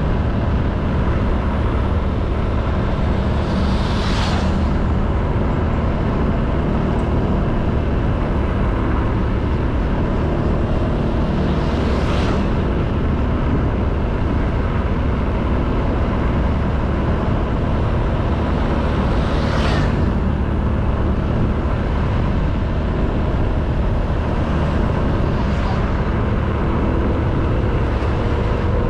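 Honda Beat 110cc scooter's single-cylinder engine running at a steady cruise, under heavy wind rumble on the camera microphone. Three brief hissing whooshes pass about 4, 12 and 20 seconds in, and a faint rising engine tone comes in near the end.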